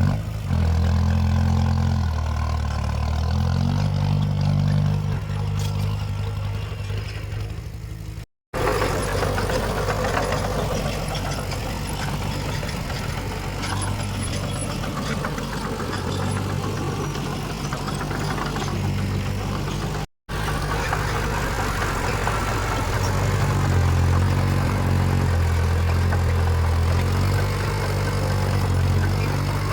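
Diesel engines of heavy earthmoving machines such as bulldozers and dump trucks running, the engine note rising and falling as the load changes. The sound cuts out abruptly for a moment twice, about 8 and 20 seconds in.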